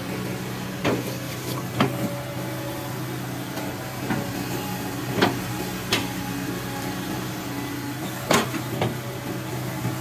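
Hitachi Zaxis 110 hydraulic excavator's diesel engine running steadily, with about seven sharp knocks at irregular intervals from the working machine.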